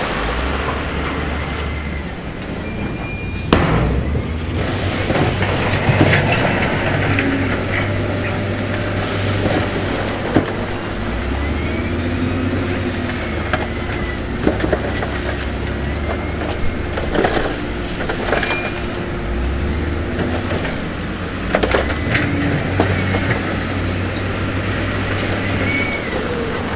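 Heavy diesel engine of a crawler bulldozer running under load, its steel tracks clanking and squealing, with a few sharp knocks of stone or metal scattered through.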